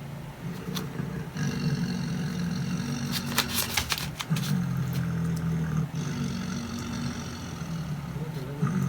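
Tiger growling in several long, low rumbles, played from a tiger video through computer speakers, with a quick run of sharp clicks about three seconds in.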